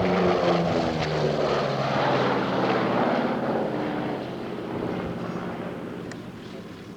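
Lockheed Neptune patrol aircraft passing and flying away, its engines and propellers giving a steady drone. The drone drops in pitch over the first few seconds, then slowly fades.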